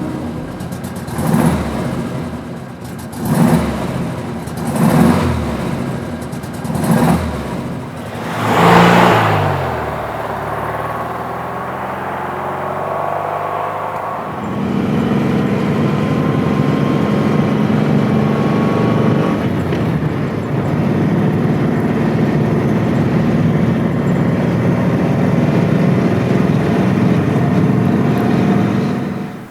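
Porsche 356B 1600's air-cooled flat-four engine on the move. It gives about five short loud surges in the first nine seconds, then pulls with slowly rising pitch. About halfway through it settles into a louder, steady run at constant pitch.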